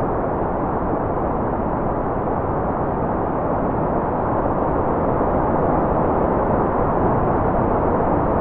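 Steady white noise played as a continuous focus and sleep track. It is an even, muffled hiss, weighted toward the low end, with no change in texture and a slight swell about halfway through.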